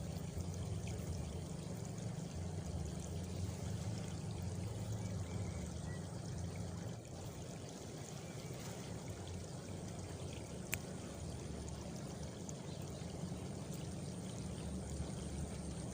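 Water running steadily, a continuous rushing and pouring with a heavy low rumble, and one sharp click about eleven seconds in.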